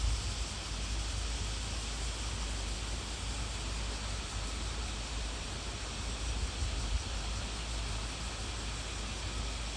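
Steady outdoor noise: wind rumbling on the microphone over an even hiss, with a small knock about seven seconds in.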